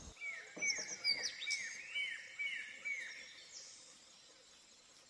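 Forest birds calling: a run of about seven short, repeated notes, roughly two a second, with fainter higher chirps over them, fading out after about three seconds.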